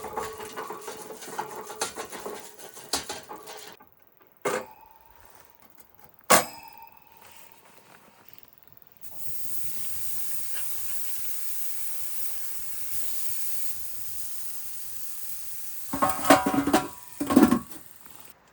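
Burger patties sizzling on a charcoal barbecue grill, a steady hiss that starts about halfway through. Before it come a couple of sharp knocks, and near the end a short loud clatter.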